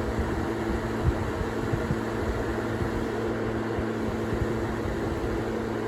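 Duracraft DT-50 10-inch table fan running, a steady motor hum under the rush of its fast-spinning blade. It is noisy, with a little vibration but no rattles.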